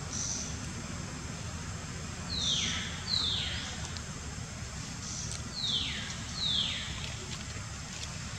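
Bird calls: four loud downward-slurred whistles in two pairs, each falling steeply in pitch, with a few faint high chirps between them, over a steady low rumble of wind.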